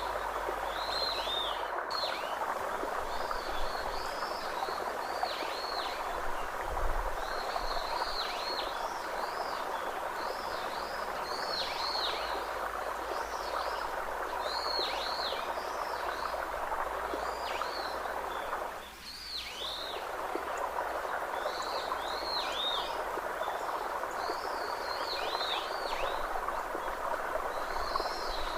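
Nature ambience: a steady, even rushing noise under repeated short, high, down-slurred bird chirps that come every second or two. The rushing briefly dips about two-thirds of the way through.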